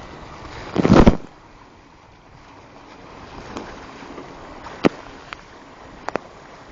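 Dart 16 sailing catamaran moving fast in gusty wind: a steady rush of water and wind noise. About a second in there is a loud buffet lasting half a second, and a few sharp knocks come later.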